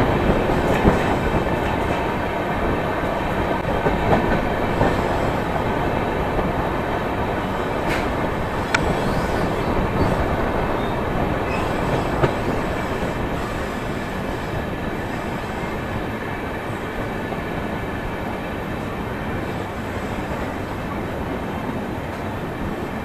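Passenger train running on its rails, heard from inside the closed coach: a steady rumble with wheel clatter that grows slowly quieter as the train slows into a station, with two sharp clicks about eight seconds in.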